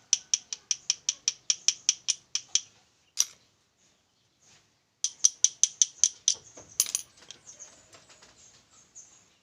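Rapid, evenly spaced metallic clicking, about five a second, from a hacksaw blade worked against a spark plug's electrode while the plug gap is set and checked for a snug fit. There are two runs of clicks with a single click between them.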